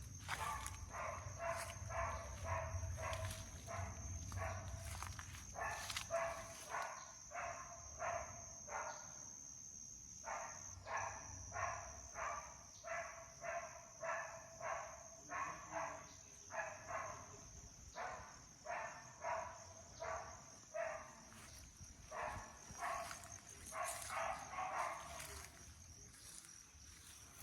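A dog barking over and over, about two barks a second, with a couple of short pauses. A steady high-pitched insect drone runs underneath.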